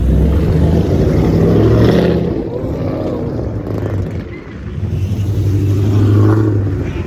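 A car engine running close by with a deep, steady rumble. It grows louder twice, near the start and again about six seconds in, with a dip between.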